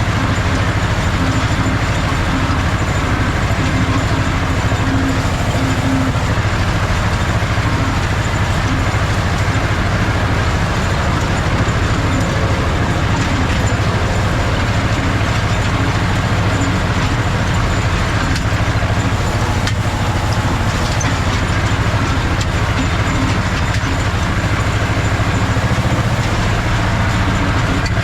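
Ursus C-330 tractor's two-cylinder diesel engine running steadily under load while pulling a hay rake.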